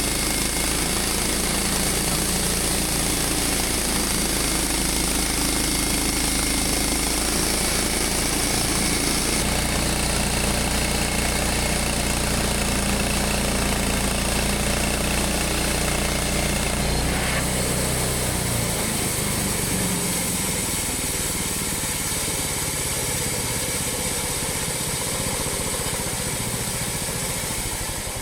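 Sawmill with a freshly fitted replacement engine running under load as its blade cuts a 10-inch piece of Douglas fir. The engine's note changes about two-thirds of the way through, and the overall sound eases slightly near the end.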